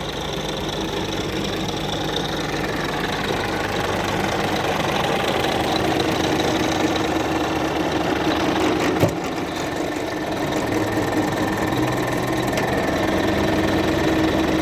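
Scania P-360 truck's diesel engine running steadily, growing a little louder over the first several seconds, with a short sharp click about nine seconds in.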